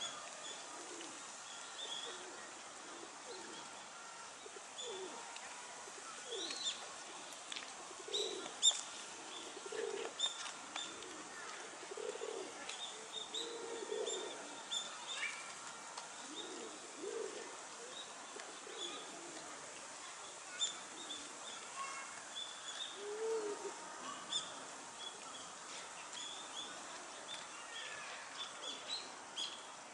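Wild birds calling outdoors: many short, high chirps repeated throughout, with lower, softer calls scattered among them.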